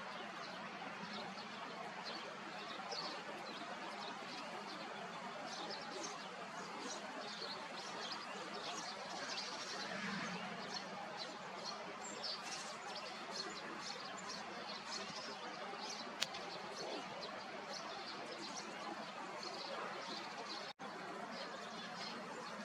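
Small birds chirping with many short, high calls over a steady background hiss, with one sharp click partway through.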